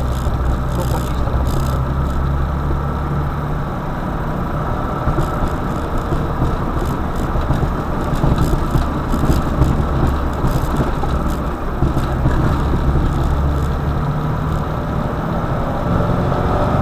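Car engine running with road noise while driving: a steady low rumble whose deepest hum weakens for a few seconds and comes back.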